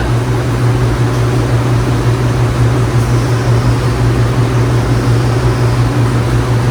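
Steady mechanical drone: a strong constant low hum under an even rushing noise, with no change in level.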